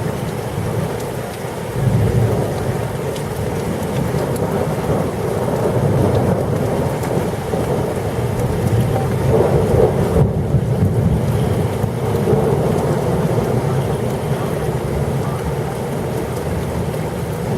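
Heavy rain pouring down with rolling thunder. The thunder rumble swells about two seconds in and stays strong through the middle.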